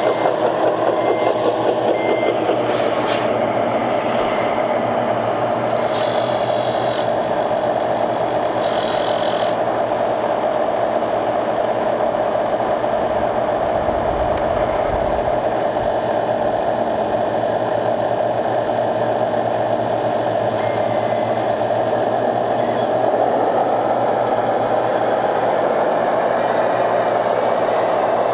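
Steady whir of radio-controlled scale construction models' electric motors and drivetrains, getting a little louder about three-quarters of the way through. A few short reversing-alarm beeps sound in the first two seconds.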